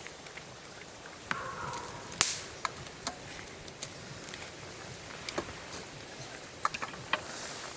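Scattered light clicks and taps at irregular intervals, the sharpest about two seconds in.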